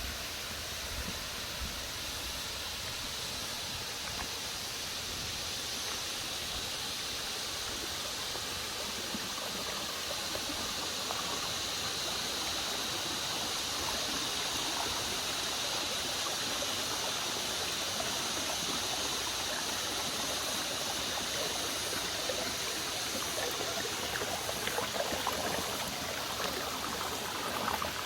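Running water rushing steadily, like a stream, with some short irregular crackles near the end.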